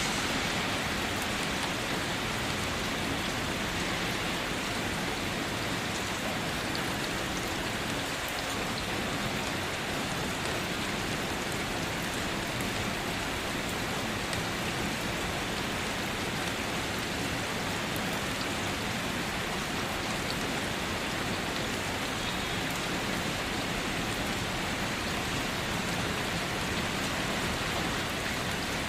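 Steady rain falling, a dense even hiss of drops with faint individual drop ticks, without thunder.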